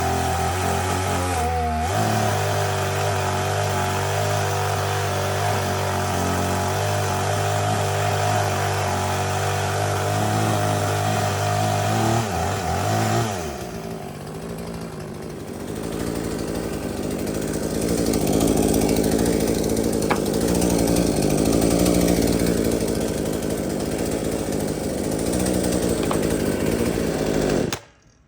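Poulan Pro P3816 38cc two-stroke chainsaw running at high revs with a steady pitch, then dropping in pitch about 13 seconds in. In the second half it runs louder and rougher at a lower pitch as it labours through a thick log, and the sound cuts off abruptly near the end.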